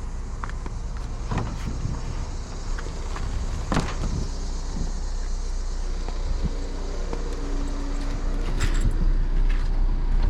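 A steady low rumble with a few sharp knocks and clicks scattered through it, as objects are handled and set down.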